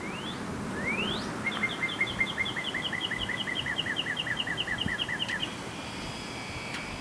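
A bird singing: two quick rising whistles, then a rapid run of short chirps, about five a second, lasting about four seconds.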